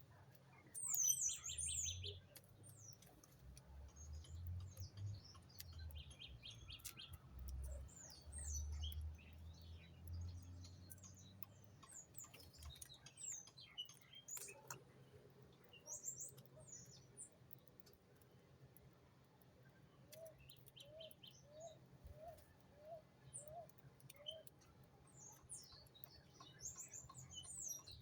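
Small birds chirping and twittering: many short high chirps and quick trills, with a run of about seven lower, rising notes about twenty seconds in.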